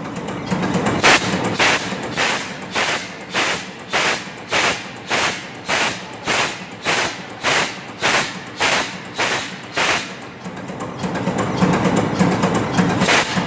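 MAN B&W 5S35ME low-speed two-stroke marine diesel engine turning slowly, with a sharp, regular beat a little under two times a second. The beat breaks off for about two seconds near the end, leaving a steadier running noise, then starts again.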